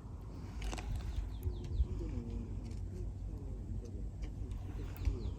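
Small birds calling in quick runs of short, high, downward-sliding chirps, twice, over a steady low rumble. A single sharp click sounds just under a second in.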